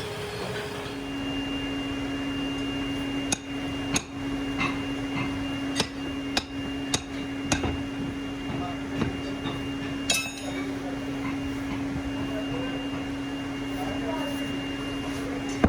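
Workshop machinery running with a steady hum that starts about a second in. Sharp metallic knocks and clanks come at irregular intervals over it, about seven in all.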